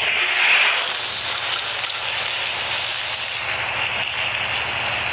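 Heavy rain falling as a steady hiss, swelling slightly about half a second in.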